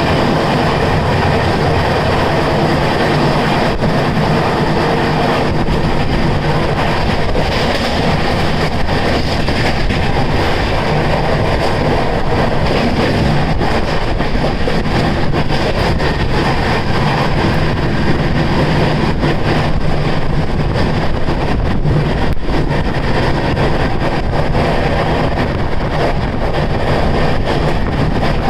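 Steady, loud running noise of a moving vehicle, a continuous rumble with fine rapid clatter and a faint steady hum.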